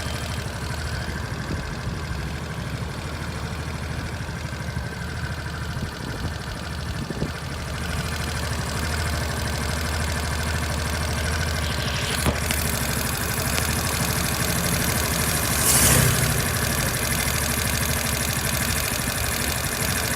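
Suzuki Swish 125 scooter's single-cylinder four-stroke engine idling steadily with a mechanical noise that the owner finds abnormally loud for a new engine under 100 km, a sign of a fault he wants the dealer to look at. It gets a little louder about eight seconds in, with a short click near twelve seconds and a brief louder noise near sixteen seconds.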